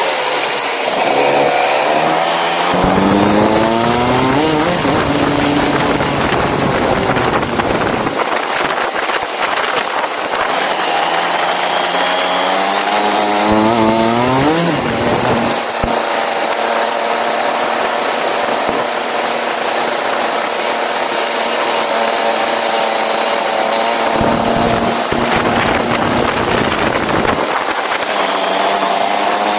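A go-kart's small single-cylinder engine accelerates hard, its pitch climbing, then drops back, three times over. In the middle stretch it holds steady at high revs for several seconds.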